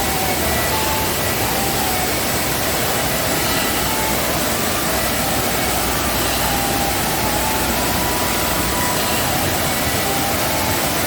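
Waterfall in heavy rainy-season flow: a steady, loud rush of falling water.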